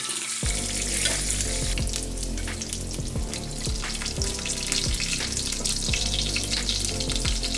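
Rolled fish tacos in corn tortillas sizzling steadily in hot shallow oil in a cast iron frying pan while they are turned over with tongs. Background music with a low bass comes in about half a second in.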